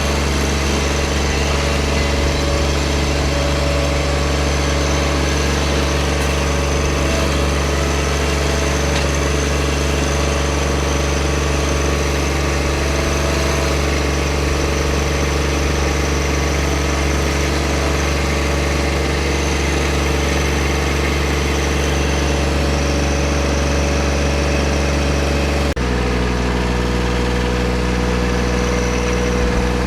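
Tractor engine running steadily at a constant speed. Near the end the engine note changes abruptly to a different steady pitch.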